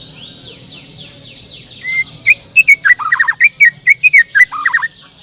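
White-rumped shama (murai batu) singing a loud burst of varied sharp whistles and rapid notes for about three seconds, starting about two seconds in. Behind it runs a steady chorus of many other birds chirping in quick falling notes.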